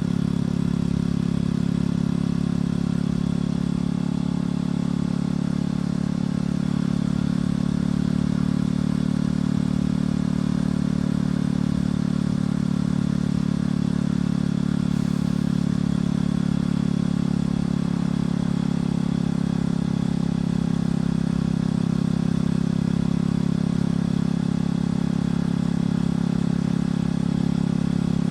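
Motorcycle engine and exhaust running at a steady cruise, a constant drone with the revs holding almost level.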